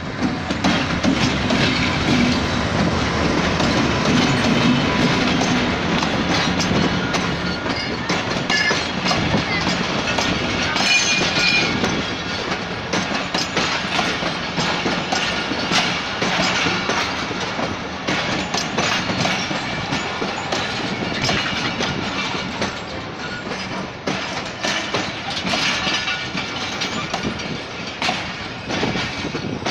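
Pakistan Railways AGE-30 diesel-electric locomotive passing close by with its engine running, loudest in the first few seconds, followed by its passenger coaches rolling past, the wheels clicking steadily over the rail joints. The sound eases a little in the second half.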